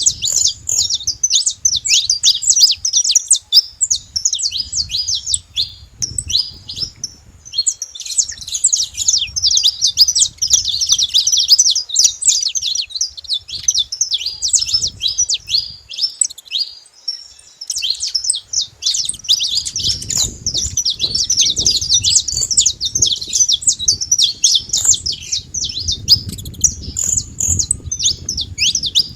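A flock of saffron finches chirping together: a dense, continuous chatter of many short, high, overlapping notes.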